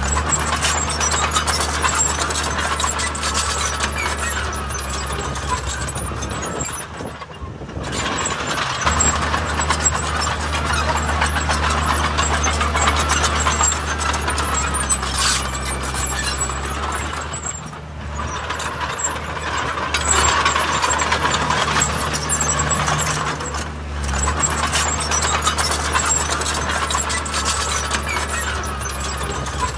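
Diesel engines of heavy earthmoving machinery running steadily under work, with a rough, noisy clatter over the engine note. The sound eases briefly about a quarter of the way in and again past the middle.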